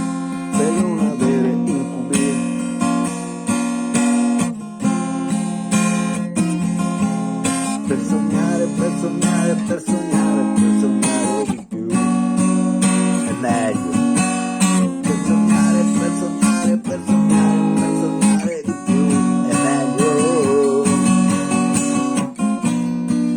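Acoustic guitar being strummed, playing chords continuously.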